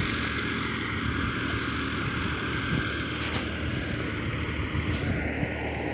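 Vehicle engine running steadily, with a constant low hum and road noise.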